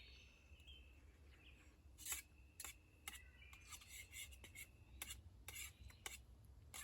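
Spoon scraping and clicking against a container of beef stew while eating, a string of short, quiet strokes starting about two seconds in.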